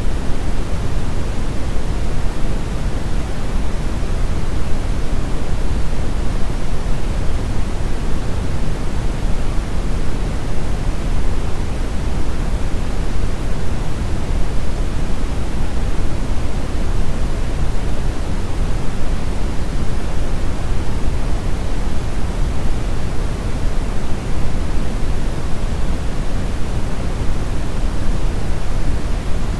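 Steady brown noise: an even, deep hiss with most of its weight in the low end, unchanging throughout.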